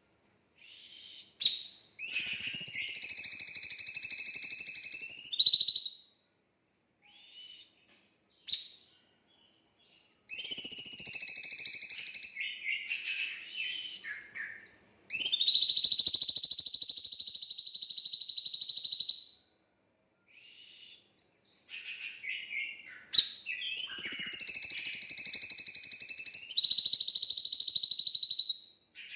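Songbird singing long, rapid trilled phrases of three to five seconds each, four of them with short pauses and a few single sharp notes between: bird song of the kind used as a masteran, a song recording for captive songbirds to learn from.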